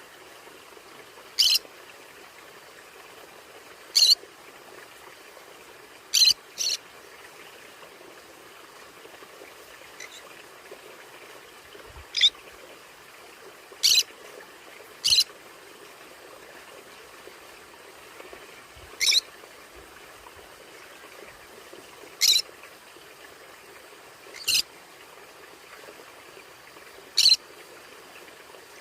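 Conure parrot giving short, sharp single calls, about eleven of them spaced irregularly a second to several seconds apart, over a steady faint hiss.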